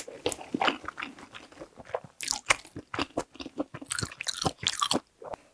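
Close-miked chewing and wet mouth sounds of someone eating jjajang instant noodles: irregular smacks and clicks, with longer noisy bursts about two seconds in and again around four seconds in.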